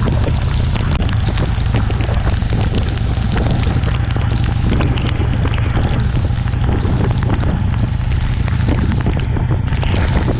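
Heavy wind noise on the microphone of a motorcycle at expressway speed in a downpour, with a dense, steady patter of raindrops over it.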